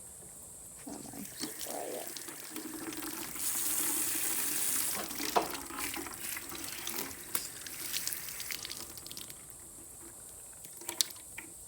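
Water running and splashing into a small animal water cup as it is rinsed out, starting about a second in, loudest in the middle, with a few sharp knocks, and easing off near the end.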